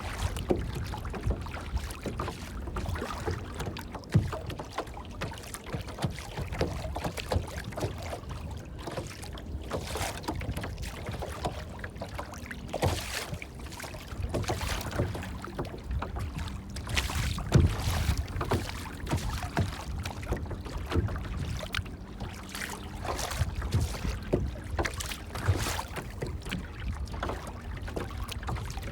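Water lapping and splashing in small irregular bursts over a steady low rumble.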